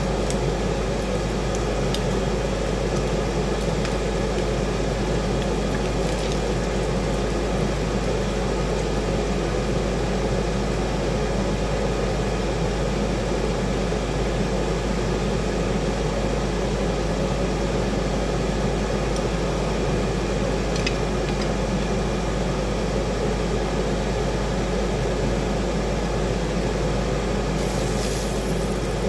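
Steady, unchanging fan-like whir with a low hum, with a few faint ticks.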